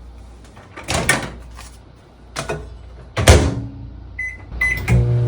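Panasonic NN-SG676B microwave being worked: a few clicks and a thump of its door, the loudest near the middle. Two short keypad beeps follow, then near the end the oven starts running with a steady hum.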